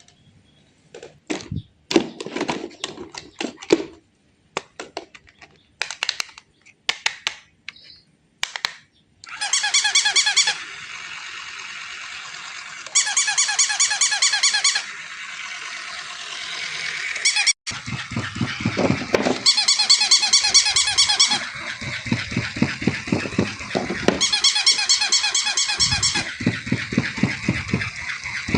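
Electronic toys handled and playing: scattered clicks and knocks, then repeated electronic sound-effect bursts of a second or two each, with low rumbling bursts joining about halfway through.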